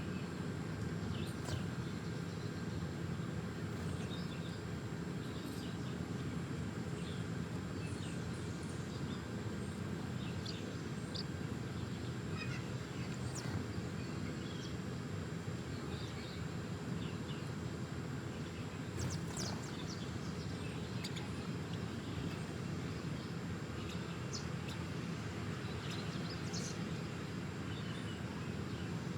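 Small birds chirping, short scattered calls throughout, over a steady low hum.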